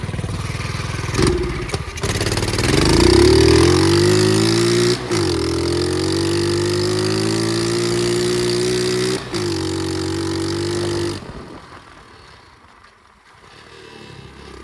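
Flywing pit bike engine revving up and then holding a steady pitch under way, with two brief dips in the note. About eleven seconds in the engine sound falls away and stays faint.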